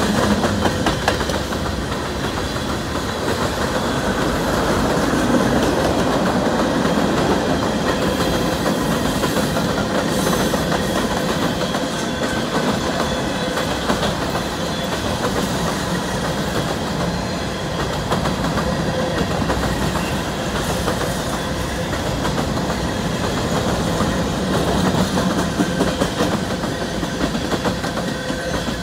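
Freight train cars rolling past: steady rumble of steel wheels on the rails, with repeated clicks as the wheels cross rail joints.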